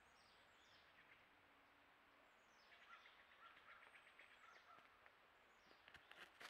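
Faint bird calls: repeated thin whistles falling in pitch, with a run of quick chips in the middle. Near the end, a few light crackling steps on dry forest litter begin, deer hooves approaching.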